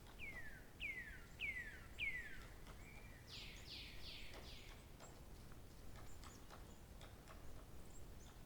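A songbird singing: four clear whistled notes, each gliding down in pitch, then a short level note and a quick run of four fuller downward-sweeping notes. Faint scattered ticks follow.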